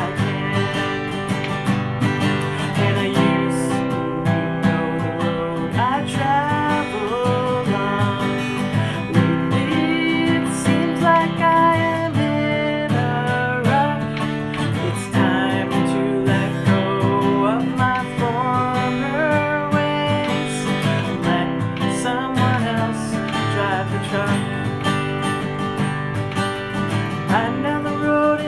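Acoustic guitar strummed steadily, accompanying a voice singing a song.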